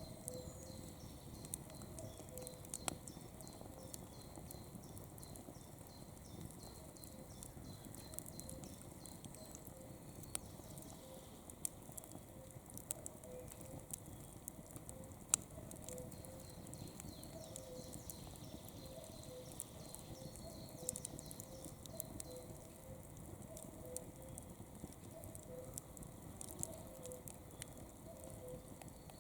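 Campfire burning, with irregular crackles and occasional louder pops. A faint chirp repeats several times a second in the background.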